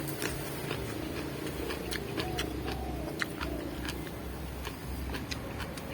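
Close-up crunching and chewing of raw vegetables, a quick irregular series of crisp crunches over a low chewing rumble.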